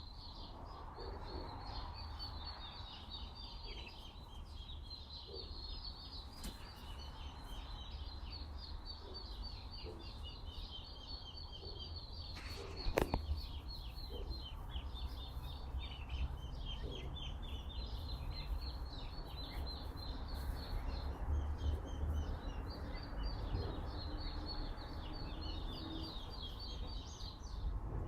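Many small birds chirping and twittering without pause in quick high notes, over a steady low rumble of wind on the microphone. A single sharp click sounds about 13 seconds in.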